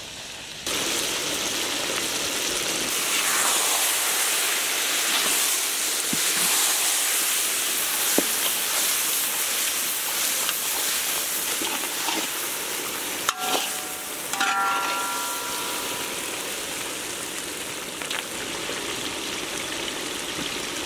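Crab pieces with onions, tomatoes and spices frying in oil in a large kadai, sizzling as they are stirred with a spatula. The sizzle cuts in a little under a second in, with a couple of brief clicks and a short squeak about two-thirds of the way through.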